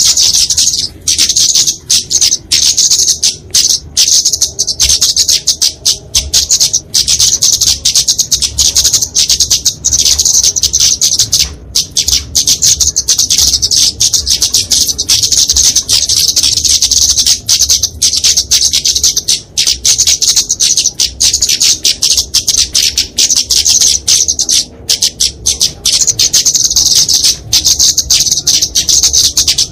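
Kemade flowerpecker (Dicaeum) giving rapid, high-pitched chattering calls almost without a break. This is its agitated fighting song, the kind used as a lure to draw in small birds.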